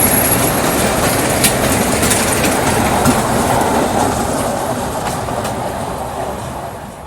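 Amusement-park ride train running past on its track, clattering with a thin high squeal and a few clacks, then fading away over the last few seconds as it moves off.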